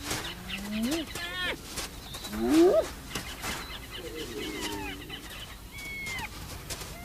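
Spotted hyena pups whining and squealing, several calls sliding in pitch, the two loudest rising sharply about one and two and a half seconds in.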